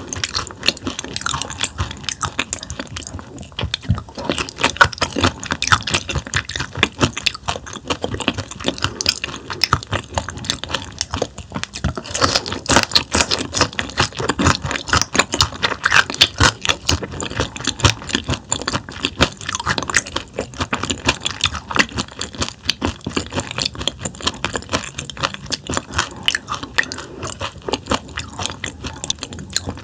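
Close-miked chewing of raw damselfish sashimi sliced with its tough bones in: a continuous run of wet crunches and clicks as the bones are chewed.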